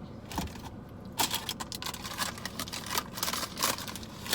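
Close-up mukbang eating sounds: a fast run of short, crisp clicks and crackles from chewing fast food with the mouth near the microphone.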